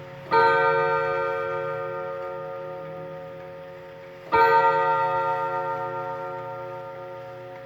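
Antique two-winding-hole wall clock striking on its gong: two slow strokes about four seconds apart, each ringing with many overtones and fading away slowly.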